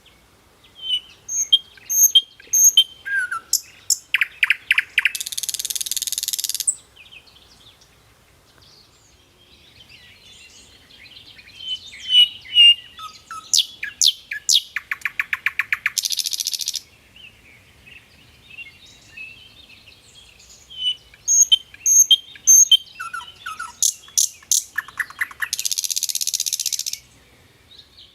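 A songbird singing the same song three times. Each song is a run of sharp chirps that speeds into a rapid trill and ends in a harsh, rasping buzz about a second and a half long.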